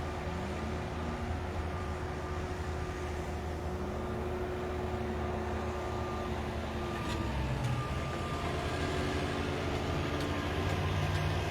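Construction machinery engines running as a low, steady rumble, with an engine note that rises in pitch a few times; the noise grows a little louder in the second half.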